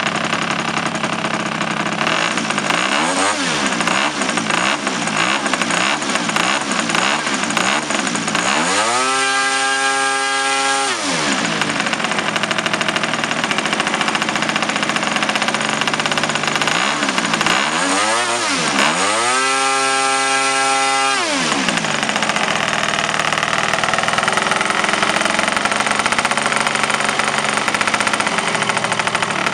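MOKI-22 petrol model-aircraft engine running, blipped quickly up and down about once or twice a second, then opened up twice to a high steady pitch for about two seconds each time before dropping back to a lower speed.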